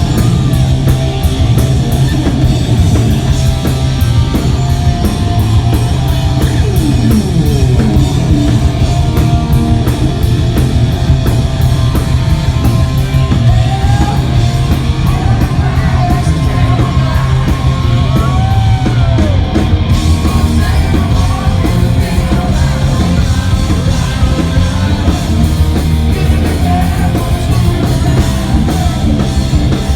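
Loud live hard-rock band playing: distorted electric guitar, bass and drum kit with cymbals, with vocals.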